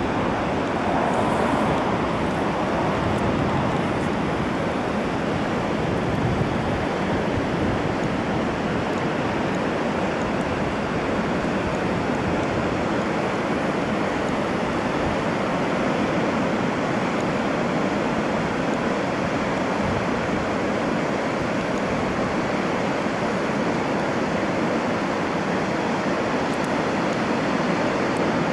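Steady, unbroken rushing noise that holds at one level throughout.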